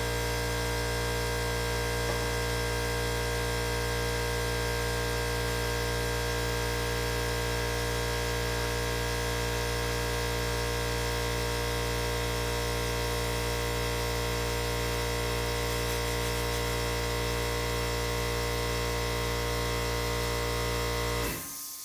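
Electric pressure washer motor running steadily with an even, unchanging hum, switched off abruptly near the end.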